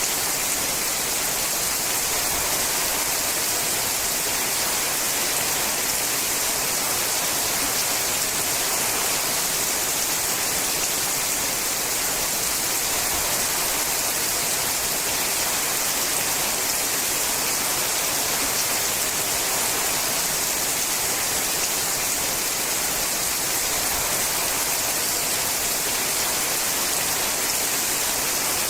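Steady rain falling on a sheet-metal roof, a dense, even hiss with no single drops standing out and no change in strength.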